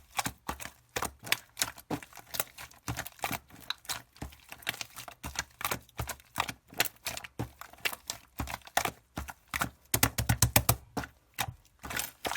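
Pink slime being squeezed and poked by hand, making quick, irregular clicks and pops, with a fast run of them about ten seconds in.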